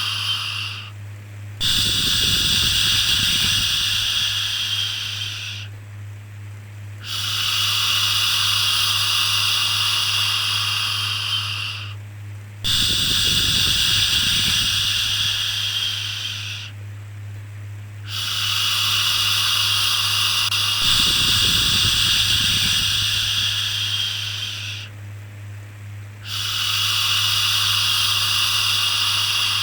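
Long, drawn-out 'shhh' shushing sounds for soothing a baby, repeated about every five to six seconds with short breaks between them, over a steady low hum.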